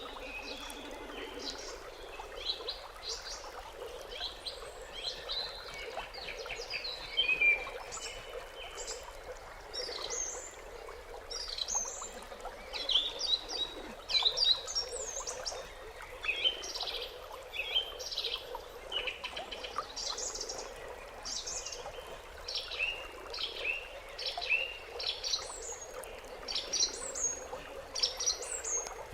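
Wild birds chirping: many short, quick high calls in rapid runs that overlap one another, over a steady background hiss.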